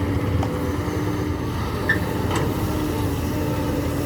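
Diesel engine of heavy earthmoving machinery running steadily, with a steady whine over the low rumble. A few light knocks, the sharpest about two seconds in.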